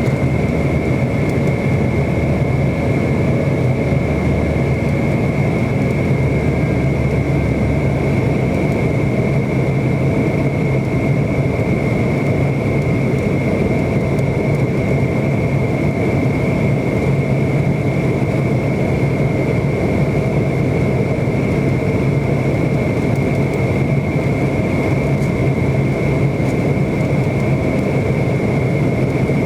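Steady jet airliner cabin noise from a McDonnell Douglas MD-90, its rear-mounted IAE V2500 turbofans running with an even high whine over a low hum.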